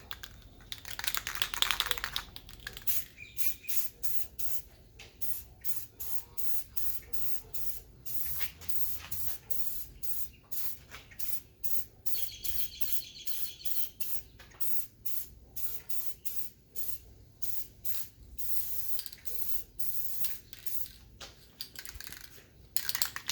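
Spray paint hissing out in many short, quick bursts, about two a second, as the belt sander frame is given a red coat.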